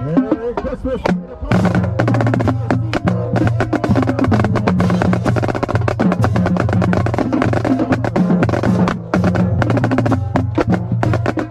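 Marching drumline playing a fast cadence: rapid snare strokes and rim clicks over low, pitched bass drum notes. The drumming thins out briefly at the start, then comes back in full at about a second and a half.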